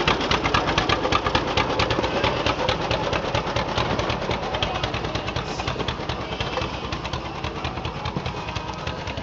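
An engine idling, with an even, rapid pulse of firing strokes at a steady level.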